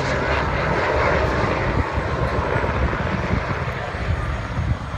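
Westland Sea King Mk5 search-and-rescue helicopter flying, its Rolls-Royce Gnome turbine engines and rotors making a steady noise with a rumbling low end.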